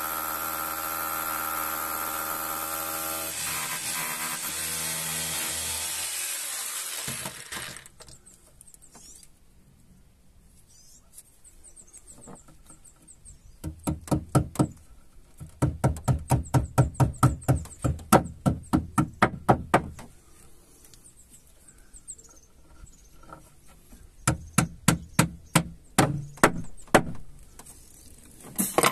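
Electric drill running steadily for about seven seconds, boring holes through a wooden shelf board for hammer-in fixings. After a pause come three runs of rapid hammer blows, about three or four a second, driving the fixings home.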